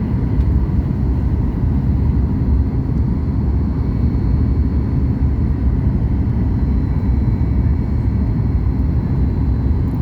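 Steady cabin roar of a Boeing 737 MAX 8 on final approach with flaps fully extended: low rumble of airflow and its CFM LEAP-1B engines, with a faint steady whine on top.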